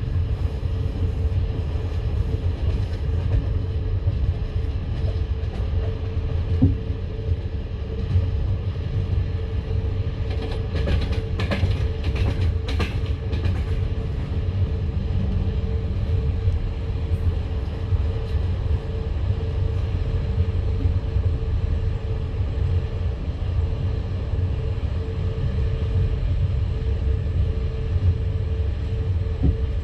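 Passenger train coach in motion: wheels running on the rails with a steady low rumble and a steady hum. About eleven seconds in there is a short run of sharp clicks and knocks.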